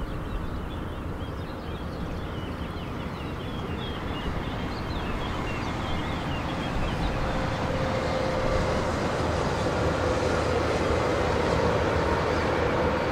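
Passenger train running along the far bank of the river, a steady rumble that grows louder over the second half with a held tone.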